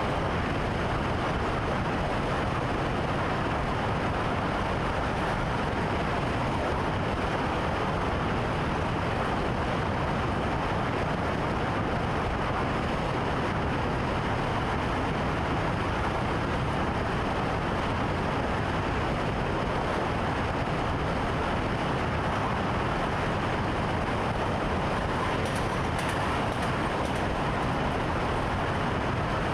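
Steady running noise of an electric commuter train under way, heard inside the driver's cab.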